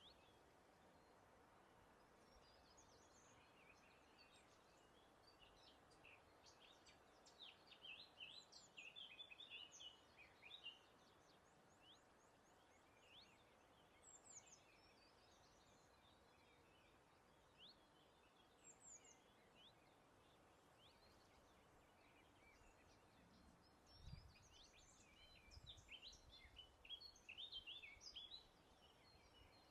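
Faint birdsong: several birds chirping and trilling in two busy spells, with scattered single calls between, over a soft steady background hiss. A couple of brief low thuds come about two-thirds of the way through.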